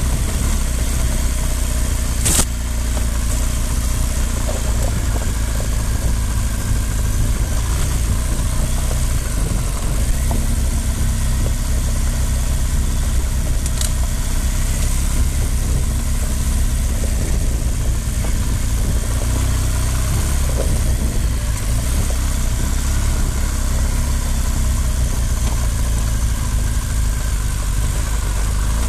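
Motorcycle engine running at low, steady revs on a dirt trail, heard from a camera on the bike along with a constant rumble. Two sharp knocks come about 2 and 14 seconds in.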